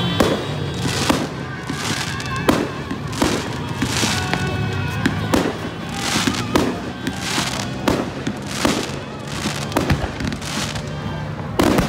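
Fireworks display: aerial shells and rockets going off in a steady series of sharp bangs and crackles, about two a second, with a loud bang near the end.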